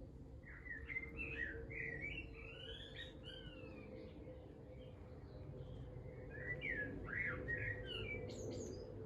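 A songbird singing two warbling phrases of quick gliding notes, one near the start and another about six seconds in, over a steady low hum.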